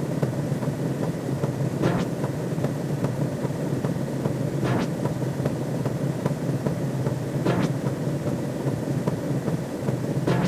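Steady low rumbling drone with a short sweep about every three seconds: a looping synthetic sci-fi sound effect.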